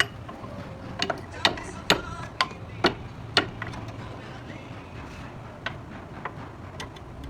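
Irregular sharp clicks and knocks: about eight in the first three and a half seconds, then a few fainter ones spaced further apart, over a low steady hum.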